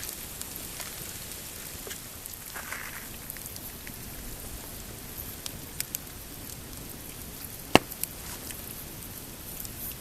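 Pine campfire crackling over a steady hiss, with scattered sharp pops; the loudest single pop comes about three-quarters of the way through.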